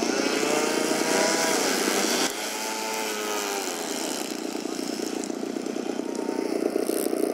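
Small model airplane engines running and buzzing. One engine's pitch rises and falls as its throttle is worked, and the loudest engine drops off suddenly about two seconds in.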